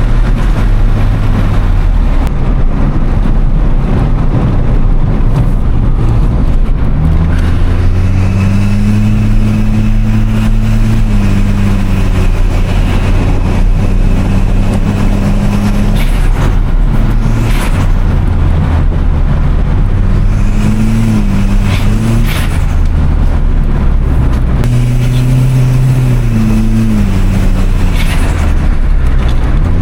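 1996 Toyota Starlet Glanza V's turbocharged four-cylinder engine pulling through the gears, its pitch climbing then dropping at each shift. Short bursts of turbo flutter come on several of the lift-offs.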